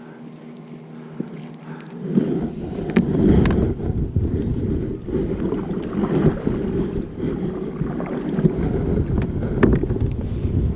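Wind buffeting the microphone. From about two seconds in it turns into a loud, uneven low rumble with a few sharp clicks, after a faint steady hum at the start.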